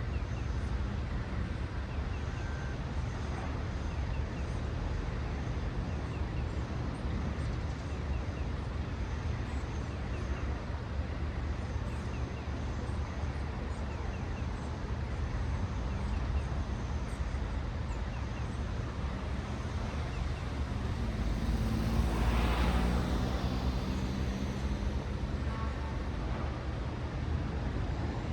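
City road traffic: a steady low rumble of cars passing, with one vehicle passing close and growing louder about three quarters of the way in before fading.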